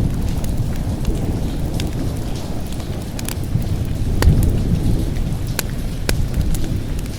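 Steady rain with a low, rolling thunder rumble that swells about four seconds in, overlaid by scattered sharp pops of a crackling wood fire.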